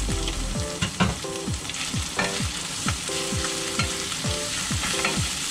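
Minced pork, chili bean paste, garlic and ginger sizzling in oil in a frying pan, stirred with a wooden spatula that scrapes and knocks against the pan now and then.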